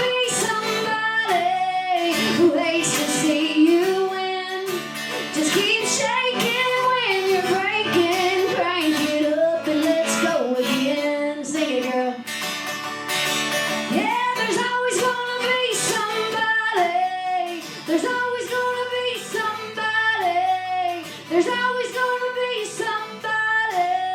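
A woman singing with an acoustic guitar strummed under her voice.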